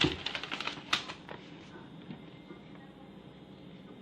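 Rapid light clicks and taps from handling plastic blender parts and packaging, thinning out after about a second and a half.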